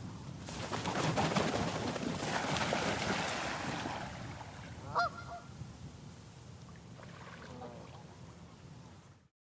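Geese landing on water: a rush of wingbeats and splashing, then a single goose honk about five seconds in and fainter calls after, the sound fading out near the end.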